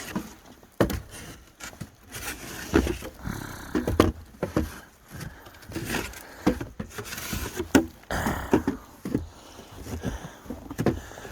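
Snow shovel scraping along a walkway and scooping snow in repeated, irregular strokes.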